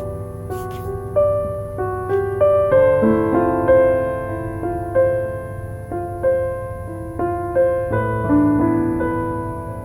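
Soft, slow piano music: notes and chords start roughly once a second and ring out. Under it, a wood-wick candle crackles faintly, with a small double crackle about half a second in.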